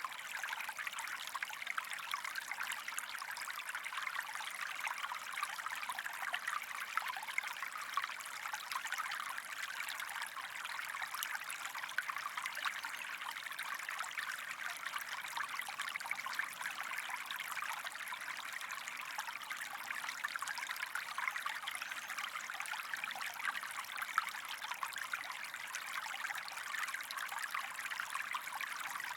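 Shallow creek water running and trickling steadily over stones, an even splashing with no low rumble.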